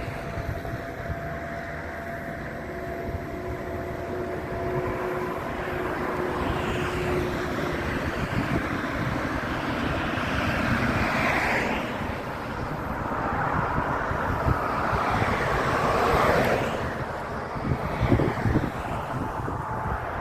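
Mountain coaster cart rolling along its track: a continuous rumble with rushing noise that swells twice, around the middle and again a few seconds later.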